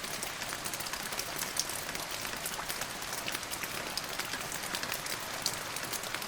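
Steady rain falling, with many separate drops ticking and spattering on a surface over an even hiss.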